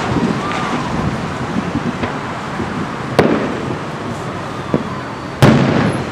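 Aerial fireworks bursting: two sharp booms, one about three seconds in and a louder one near the end, each fading into a rumble. Underneath, distant fireworks from several shows boom and crackle without pause.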